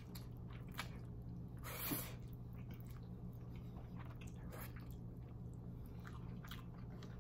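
Close-miked mouth sounds of someone chewing food: soft wet clicks and smacks throughout, with one louder noisy burst about two seconds in, over a steady low hum.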